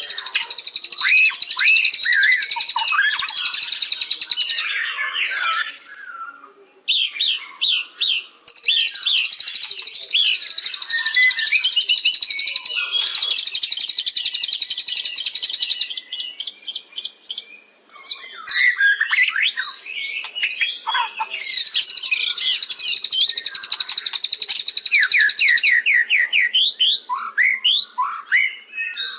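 White-rumped shama (murai batu) singing: long runs of very rapid, high trilling alternate with bursts of quick falling whistled notes, broken by two short pauses.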